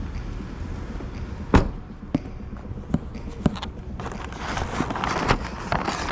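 Footsteps with a few sharp knocks and thuds, the loudest about one and a half seconds in, and a rustle near the end.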